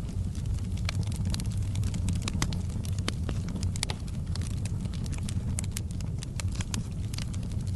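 Fire burning in a fireplace, crackling: irregular sharp snaps and pops over a steady low rumble.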